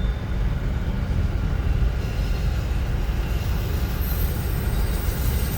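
Train running with a steady, heavy low rumble; a thin high-pitched wheel squeal comes in about four seconds in.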